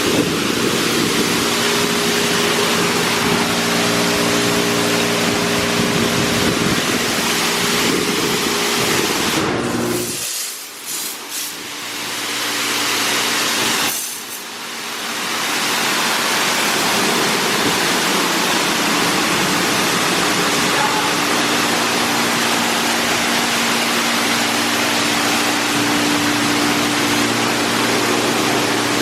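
Touchless car wash gantry spraying water against a car: a steady loud hiss of the jets over the hum of the machine's pumps and motors. The spray cuts out about ten seconds in and comes back a few seconds later.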